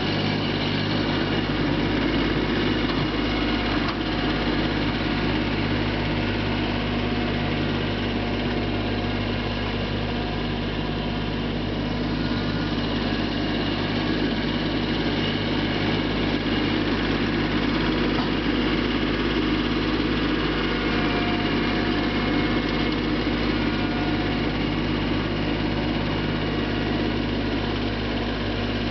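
Mahindra Max 24 compact tractor's diesel engine running steadily at a constant speed.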